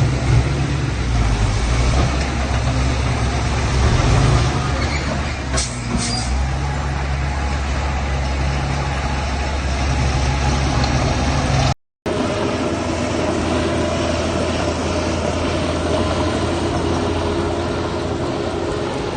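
Heavy diesel machinery engine running with a deep, steady rumble. About six seconds in there are a couple of short, sharp noises. About two-thirds of the way through, the sound cuts out briefly and then resumes with a different engine note.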